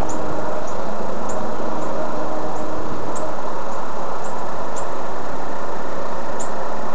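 Steady rumble of a train running at a distance, with a faint low hum under it. Faint short high ticks come now and then.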